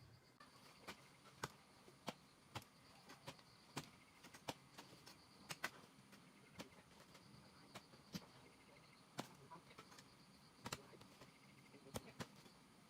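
Faint, irregular sharp clicks or knocks, about one or two a second, some louder than others, over a faint steady high-pitched hiss.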